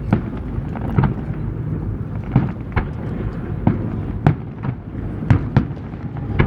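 Aerial firework shells bursting in an irregular series of sharp bangs, roughly one a second, each trailing off in an echoing rumble, over a steady low background rumble.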